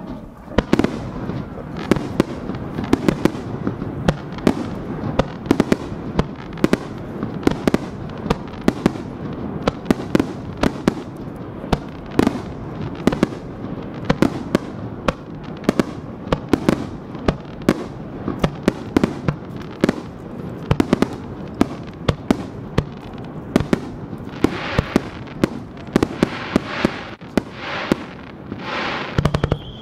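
Aerial firework shells launching and bursting in a rapid, continuous barrage of booms, several a second, with stretches of hissing and crackle near the end.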